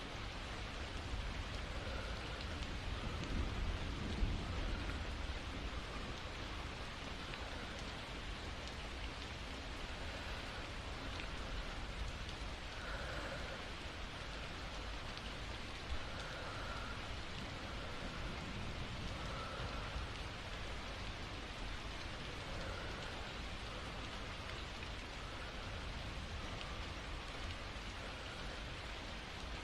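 Steady rainfall, with soft slow breaths rising faintly over it every few seconds. A brief low rumble about three seconds in.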